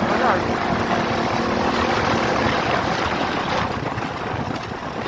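RVM CZ 250T enduro motorcycle's four-stroke engine running steadily as the bike is ridden, with a continuous rushing noise around it.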